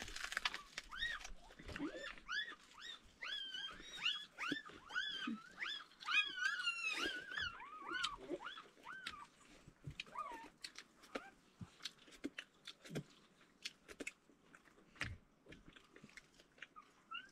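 Dog whining in a quick run of high, rising-and-falling cries, about two a second, which stop about nine seconds in. After that come scattered short clicks and smacks.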